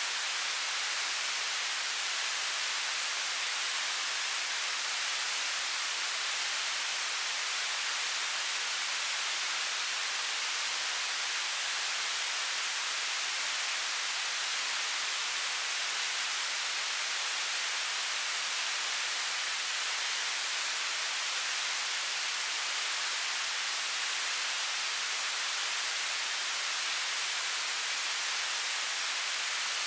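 Television static: a steady, even hiss, strongest in the upper frequencies and thin in the bass, unchanging throughout.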